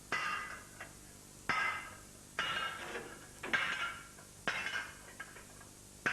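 Heavy hammer blows on steel plate, bending it to shape for a water jacket; about six ringing metallic strikes, roughly a second apart.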